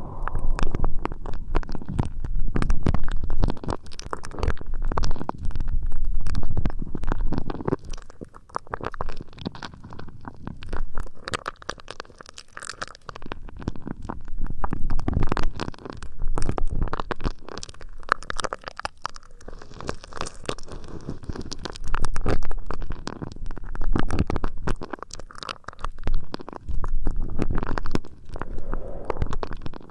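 ASMR ear rubbing: close rubbing and scratching right on an ear microphone, with a muffled rumble and fine crackles that swell and fade in waves every second or two.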